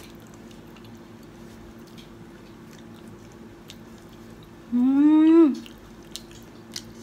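Faint chewing and mouth clicks of people eating fried chicken and potato wedges, over a steady low hum. About five seconds in, a woman's voice gives a short wordless hum that rises in pitch, the loudest sound here.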